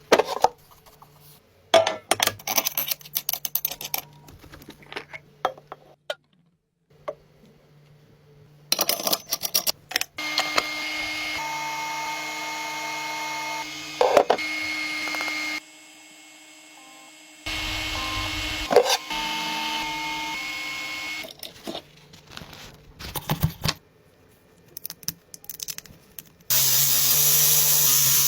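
Car-restoration workshop sounds in short edited pieces: scattered clicks and knocks, two stretches of a power tool running steadily with a faint whine, and a loud hissing, rubbing noise near the end.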